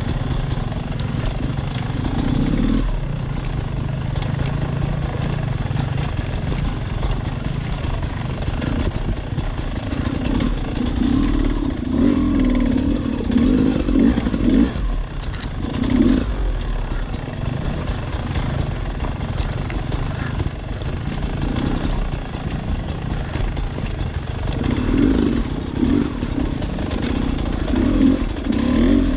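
Off-road dirt bike engine running while riding a trail, revving up in bursts around the middle and again near the end.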